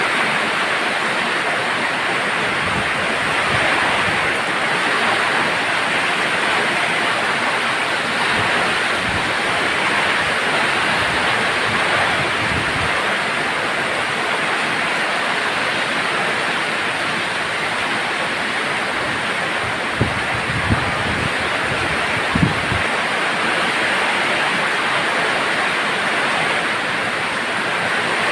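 Steady heavy rain falling with wind, an even hiss. A few short low thumps come about three quarters of the way through.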